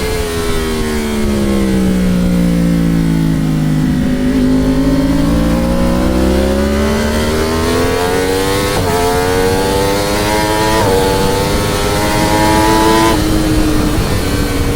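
Motorcycle engine at speed on a race track: the engine note falls smoothly as the bike slows into a corner, then climbs as it accelerates out, broken by three brief gear changes in the second half, the last of which drops the note and levels it off near the end. Steady wind rush runs underneath.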